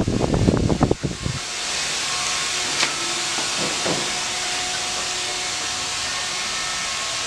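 Steady hiss of background noise with a few faint steady tones under it. A louder, jumbled low rumble stops about a second and a half in.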